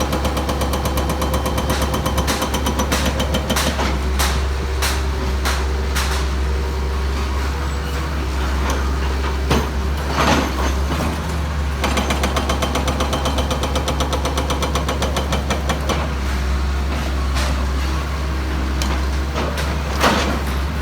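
Heavy excavation machinery: a diesel engine running under a rapid, steady hammering, with a few louder knocks about ten seconds in and near the end.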